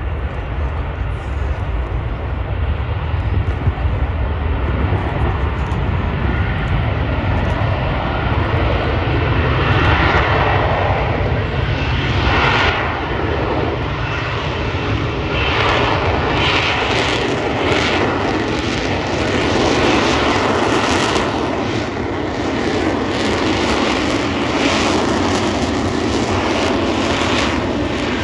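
Aircraft engines running loud and steady as aircraft fly low overhead, a deep continuous rumble that swells and eases slightly.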